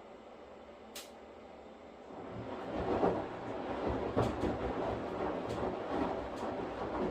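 Washing machine: a low hum with a single click about a second in, then about two seconds in the drum starts turning and the sound rises into swishing surges that repeat roughly once a second.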